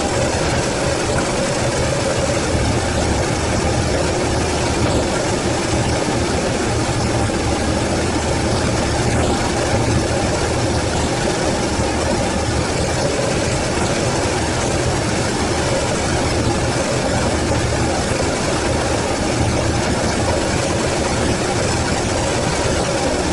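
Freshly rebuilt Toyota 4A-GE twin-cam four-cylinder on carburetors, running steadily at idle.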